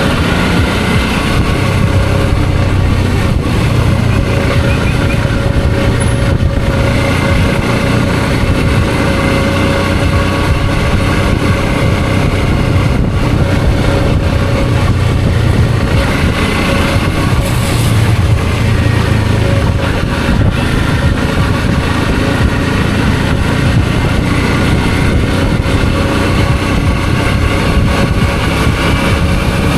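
Suzuki V-Strom 650's V-twin engine running at a steady pace, with wind and road noise.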